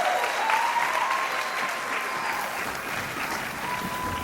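Theatre audience applauding, the clapping easing off slightly toward the end.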